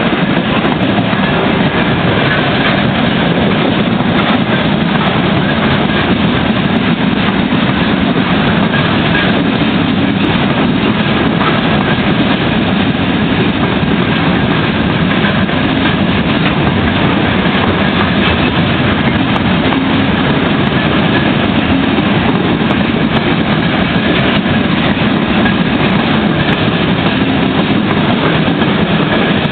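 Freight train rolling past at close range: a steady, loud noise of wagon wheels running on the rails, unbroken throughout.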